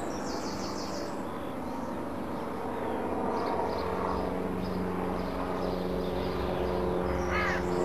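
Birds chirping: a quick run of high chirps about half a second in and a short series of arching calls near the end, over a steady low hum.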